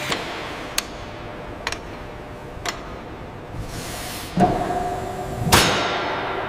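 Metal being struck in a workshop: a few sharp light taps, then two loud metallic clanks about a second apart, each leaving a ringing tone that fades away.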